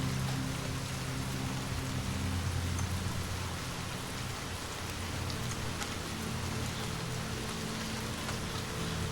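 Steady rain falling, an even hiss without letting up. Underneath it runs a soft, low sustained music drone whose notes shift a couple of times.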